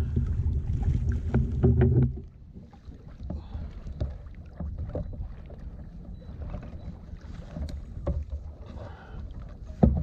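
Knocks, bumps and rubbing against a fishing kayak's hull as a big catfish and gear are handled aboard, with light water noise. A steady low rumble stops about two seconds in, and one sharp, loud knock comes near the end.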